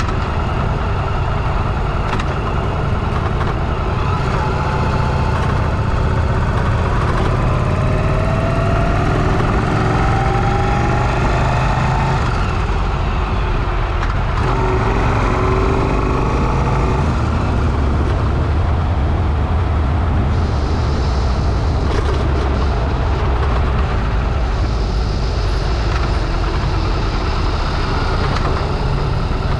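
Motorcycle engine running under way, with wind rushing over a helmet-mounted microphone. The engine note slides up and down a few times in the middle.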